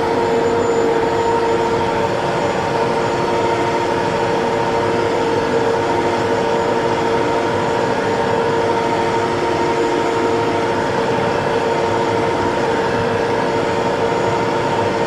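TYM T654 tractor's diesel engine running steadily at high revs, holding one even pitch.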